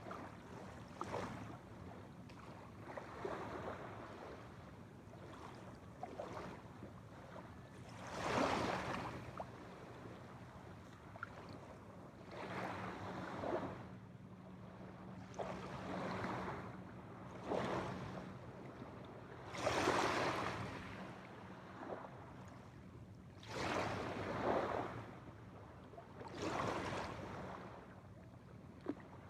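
Small waves lapping at a shore: a soft rush of water every two to four seconds, over a faint steady low hum.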